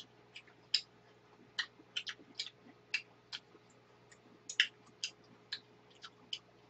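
Close-miked chewing: a run of small, irregular wet mouth clicks, about two or three a second, over a faint steady hum.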